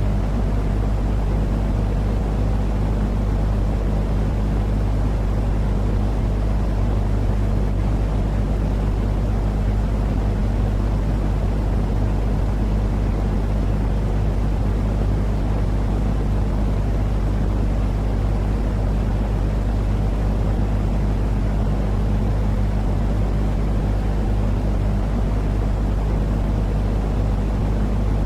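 Steady, unbroken low droning noise with a constant hum underneath, used as soothing sleep noise for a baby. It does not change in level or pitch.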